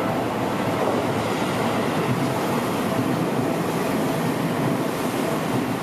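Electric commuter train running by on the rails, a steady rumbling noise of wheels and running gear.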